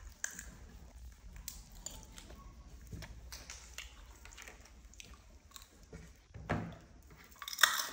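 Crunchy puffed corn snack being bitten and chewed, with irregular small crunching clicks; the sharpest click comes near the end.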